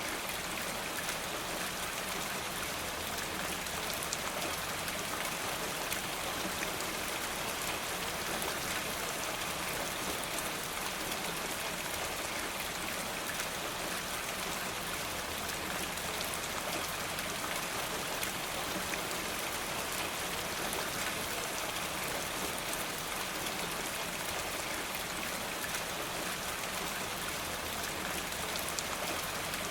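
Steady rain falling, an even hiss with fine scattered ticks of drops.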